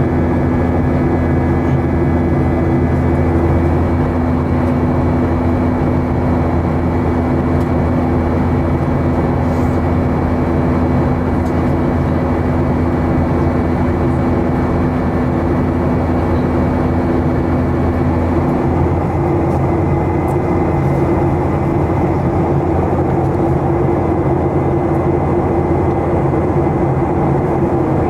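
Boeing 737-800 cabin noise in flight: the steady rush and deep hum of its CFM56 jet engines and airflow, with a few steady tones. One of the tones drops out about two-thirds of the way through while the rush carries on.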